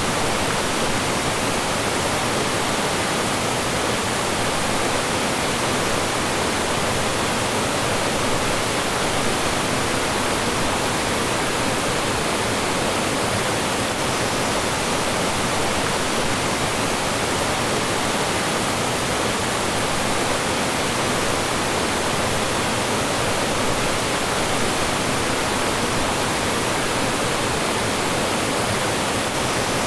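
Mountain stream rushing and falling over rocks: a steady, unbroken wash of water noise.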